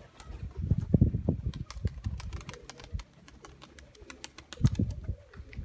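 Nikolaev pigeons cooing in low pulses, with short sharp clicks scattered through.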